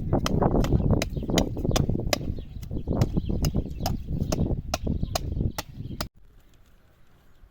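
Sharp, regular knocks, about three a second, over a loud rumbling noise, cutting off abruptly about six seconds in.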